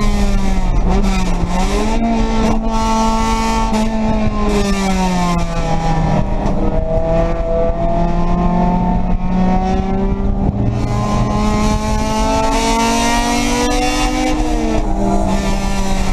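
Race car engine heard from inside the stripped cockpit, running hard on track. Its pitch drops sharply about five seconds in, climbs steadily for several seconds, then drops again near the end, the drops typical of upshifts. Road and wind noise run underneath.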